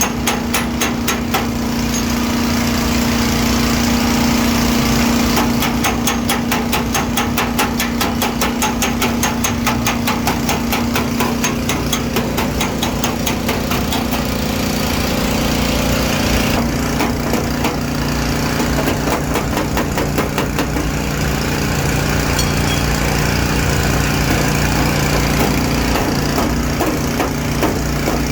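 Rapid, regular hammer taps on a car's sheet-metal body panel as dents are worked out, over a steady machine hum.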